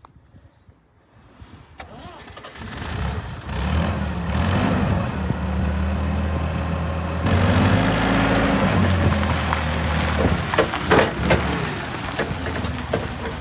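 Fiat LPG forklift engine starting and running, revved up and back down twice. Several sharp knocks or clatters sound over the engine in the last few seconds.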